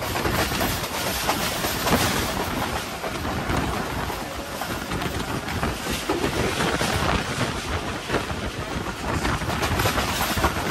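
Passenger train running along the line, heard from on board: a steady, dense rattle of the coach wheels on the rails with rushing noise.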